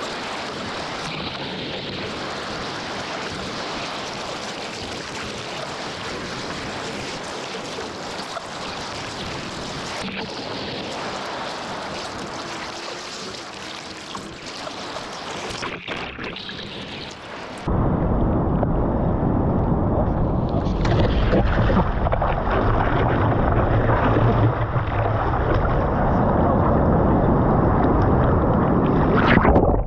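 Ocean surf with wind noise on the microphone, an even rushing noise. About 18 seconds in it cuts suddenly to louder, muffled rushing and buffeting of water and wind.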